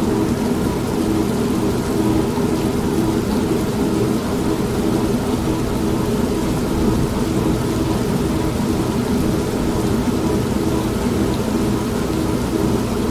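An old manual washing machine running with a steady motor hum, mixed with steady rain and a low rumble of thunder.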